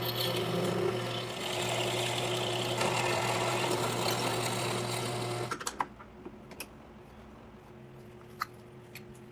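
A small motor-driven machine runs steadily with a constant hum, then stops about five and a half seconds in, followed by a few light clicks.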